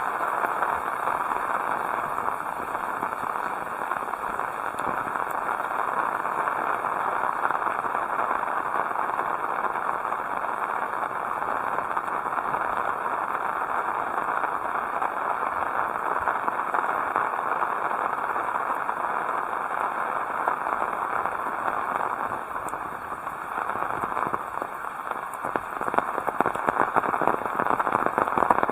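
Heavy rain falling steadily, a dense crackling hiss of drops. Near the end the rain gets louder, with sharper individual drop hits standing out.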